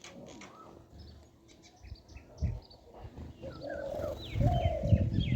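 Small birds chirping: a busy run of short, high calls with a few quick falling whistles, joined by a brief low thump about halfway through and a louder low rumble of thumps near the end.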